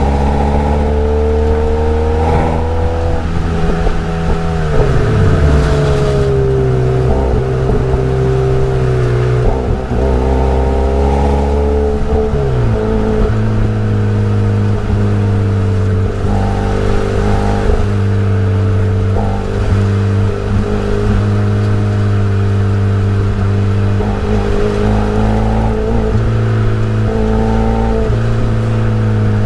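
Daihatsu Copen L880K's 660 cc turbocharged four-cylinder exhaust note under way, its pitch rising and falling with engine speed and settling into a steadier, lower-pitched run about halfway through. The audio has been sped up in editing.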